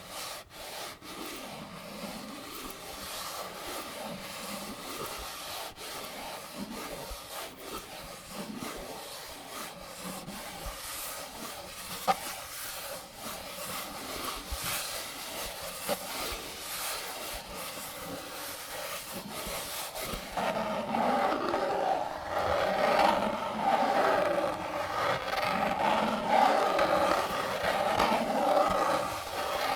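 Cartridges being loaded one by one into a 75-round AK-47 drum magazine, with small clicks and rubbing of the rounds and magazine. There is a sharp click about twelve seconds in, and from about twenty seconds in the scraping grows louder.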